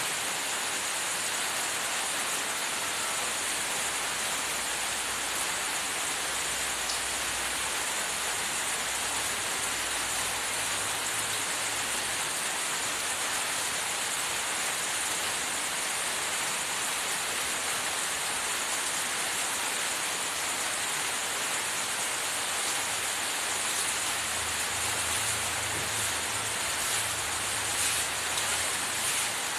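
Steady, even hiss like falling rain, with no let-up.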